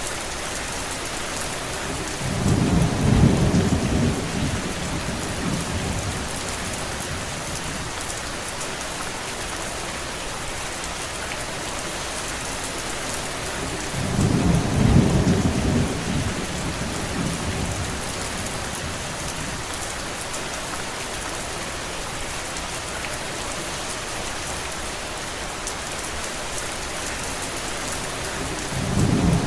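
Steady rain falling. A low rumble swells up and fades three times: about two seconds in, near the middle, and again just before the end.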